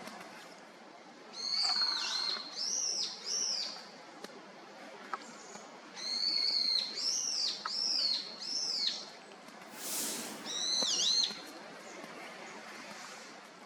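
A songbird calling in three loud phrases, each a steady high whistled note followed by a few arching, down-slurred notes. A short burst of rustling noise comes just before the last phrase.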